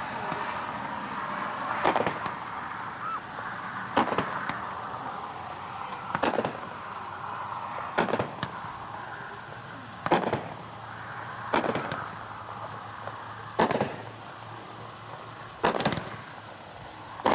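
A 200-gram consumer fireworks cake (Whitetails, 16 shots) firing, its aerial shells bursting one at a time with a sharp report about every two seconds.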